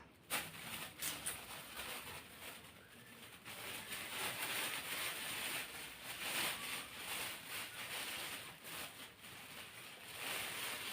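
Fish frying in hot oil in a pan: a steady sizzle with a few scattered pops.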